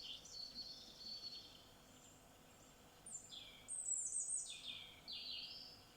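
Songbird singing: a brief high twitter near the start, then a longer phrase of quick notes stepping down in pitch in the middle, over a faint outdoor hiss.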